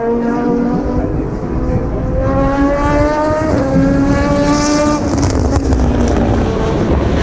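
Racing cars accelerating hard past the corner. One engine note climbs, drops briefly at an upshift about three and a half seconds in, then climbs again, over the sound of other cars running.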